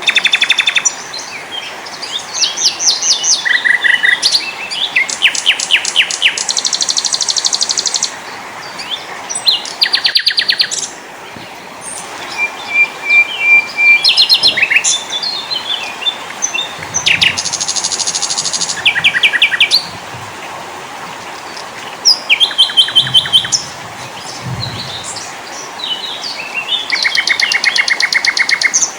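Several small songbirds singing and calling in turn: fast trills, quick runs of repeated high notes and short chirps, over a steady faint hiss.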